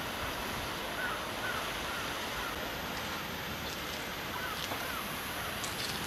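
Steady outdoor background hiss with a bird calling a few short notes, a run of them about a second in and two more a little past the middle.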